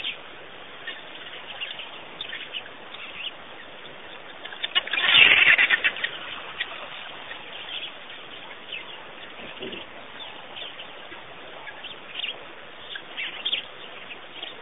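Small birds chirping at intervals, with a loud flurry of wingbeats lasting about a second and a half about five seconds in.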